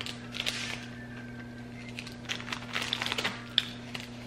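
Faint crackling clicks of a crunchy hazelnut wafer chocolate being chewed, in two bursts, over a steady low hum.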